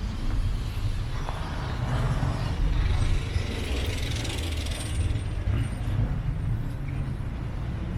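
Road traffic rumbling steadily, with a hiss that swells and fades about three to five seconds in, like a vehicle passing.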